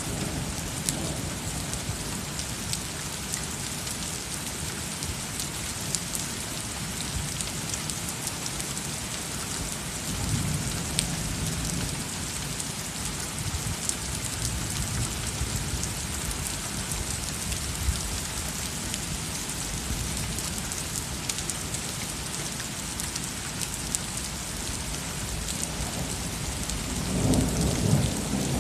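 Steady rain falling during a thunderstorm, with scattered sharp taps of drops striking nearby surfaces. Thunder rumbles low about a third of the way in, and again more loudly near the end.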